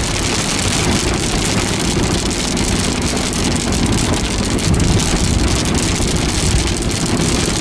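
Rain pelting the windshield and body of a car driving at about 55 mph, mixed with steady road and engine noise, heard inside the cabin with the wipers off.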